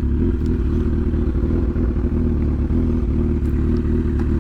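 Honda CB1000 inline-four motorcycle engine running at steady, low revs with an even note, not revving.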